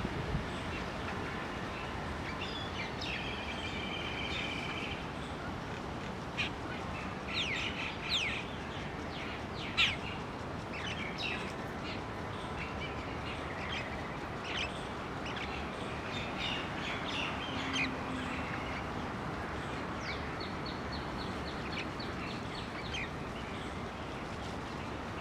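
Birds calling: short sharp chips, a trill a few seconds in and a quick run of high repeated notes near the end, over steady background noise.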